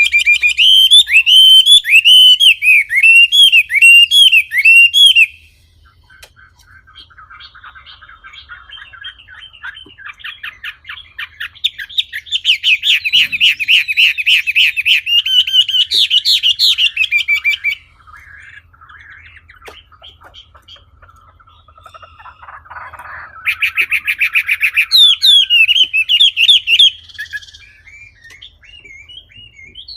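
A wambi songbird singing: loud phrases of rapid, repeated whistled notes, one at the start, one near the middle and one near the end, with quieter chattering notes in between.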